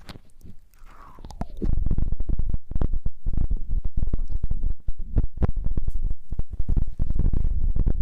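Close-miked rubbing and crackling against a microphone, with many small clicks, starting about a second and a half in and continuing steadily after that.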